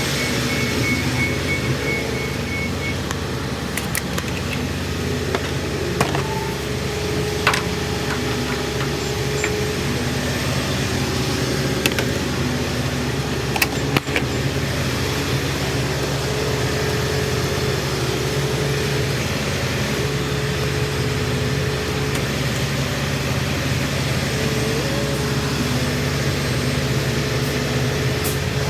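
Steady road and engine noise inside a semi-truck's cab while driving, with a low hum and a few light clicks.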